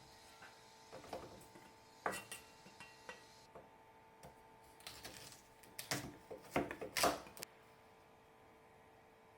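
Irregular clinks and knocks of dishes and utensils being handled, loudest in a cluster of clatters around six to seven seconds in, over a faint steady hum.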